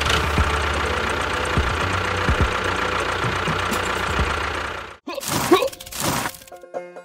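A small motor running steadily with a rattling, geary sound, cut off suddenly about five seconds in. Two short noisy bursts follow, then music begins near the end.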